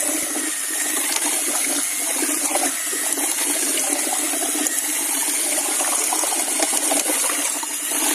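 Wet sand being sifted through a sieve: a continuous gritty rasping and rattling of sand and small pebbles on the mesh.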